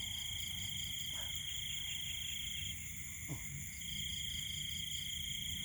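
Night chorus of insects: several steady high-pitched cricket trills layered together, one of them pulsing about four to five times a second.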